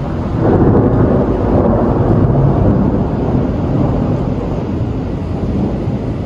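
Thunder rolling: a long low rumble that swells about half a second in and slowly eases off.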